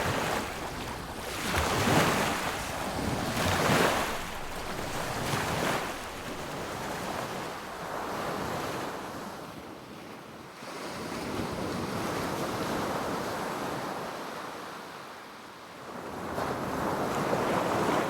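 Sea waves breaking and washing up a beach, the surf swelling and ebbing: a few quick surges in the first six seconds, then slower, broader swells.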